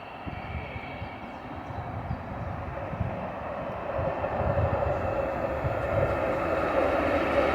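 A train approaching, its rumble and rail noise growing steadily louder.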